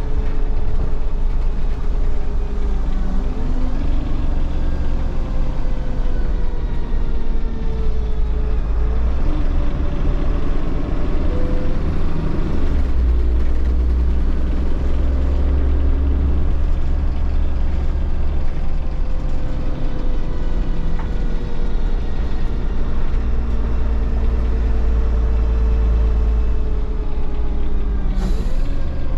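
Inside a first-generation Solaris Urbino 15 city bus under way: a steady low diesel rumble, with the engine and Voith automatic gearbox whine rising and falling as the bus speeds up, shifts and slows. A short hiss near the end.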